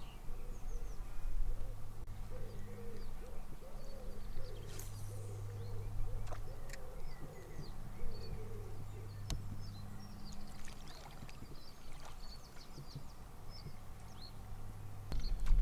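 Small birds chirping and singing over a steady low outdoor background of river water, with a few sharp clicks.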